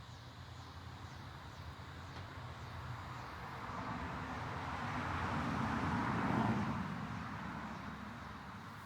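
A motor vehicle passing by: its sound swells to a peak about six seconds in and then fades, over a steady low engine hum.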